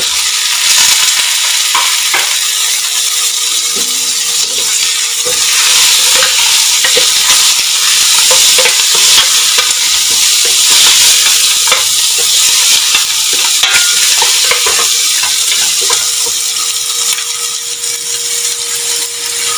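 Parboiled lamb trotters sizzling in hot oil with sliced onions in a steel pot, a steady frying hiss, while a wooden spoon stirs them with scattered scrapes and knocks against the pot.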